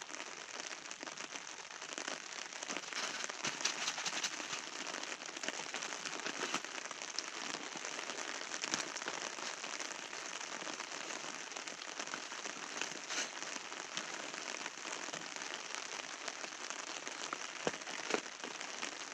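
Steady rain falling, with many scattered sharp drop ticks.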